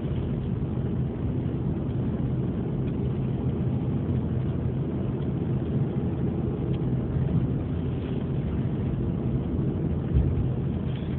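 A ferry's engines drone steadily, with a brief low bump about ten seconds in.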